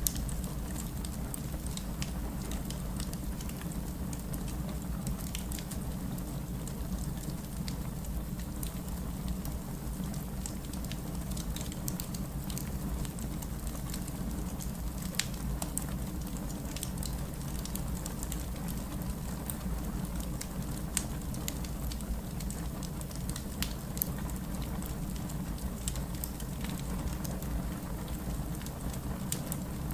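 Wood fire in a fireplace burning steadily, with a low rumble under frequent scattered crackles and pops.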